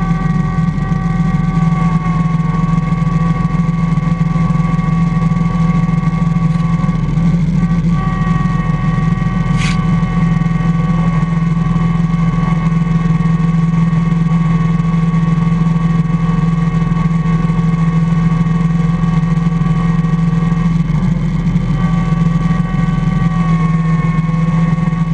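IH Cub Cadet 147 garden tractor's single-cylinder engine running steadily under load while plowing snow, with a steady whine over the engine drone. There is one brief sharp tick about ten seconds in.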